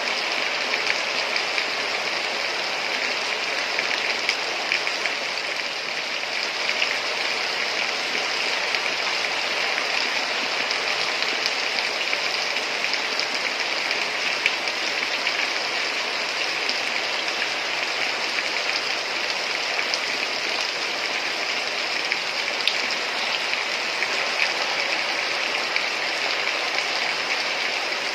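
Heavy rain falling steadily: a dense, even hiss with many scattered drop taps.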